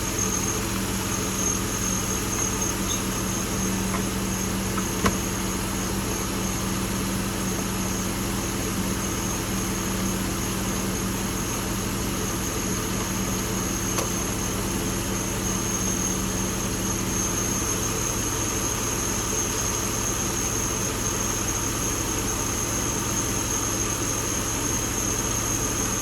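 Chevrolet Tahoe's LS V8 idling steadily with its rebuilt fuel injectors, all cylinders firing, with a steady high whine over the engine note. One sharp click about five seconds in.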